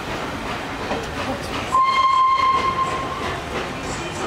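Pullman coaches rolling past with a steady rumble and clatter of wheels. About two seconds in, a single steady high whistle note sounds for about a second and a half over it.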